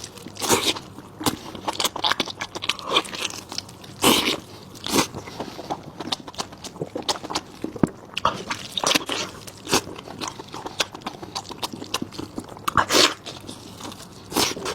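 Close-miked chewing of cooked sheep stomach (tripe): irregular wet smacks and bites with a few sharper crunchy clicks.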